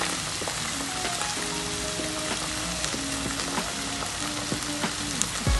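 Chopped onion, garlic, ginger and green chilli frying in oil in a pan with dollops of sauce, a steady sizzle.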